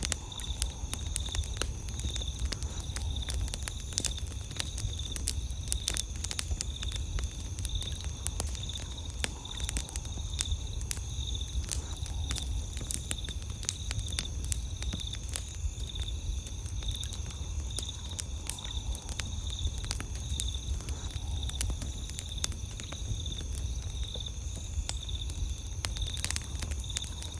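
Wood campfire crackling, with frequent sharp pops and snaps, over steady trilling of night insects and a low steady rumble.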